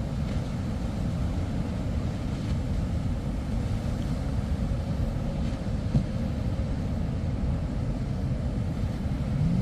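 Steady wind noise on the microphone over breaking surf, with a boat's outboard motors faintly running through it.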